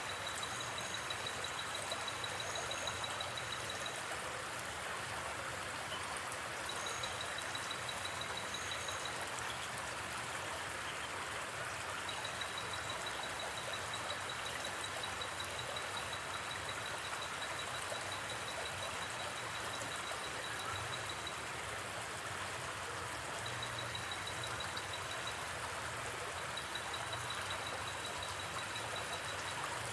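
River water flowing steadily. Over it, night insects chirp in high-pitched, rapidly pulsing trills that come in runs of a few seconds with short pauses.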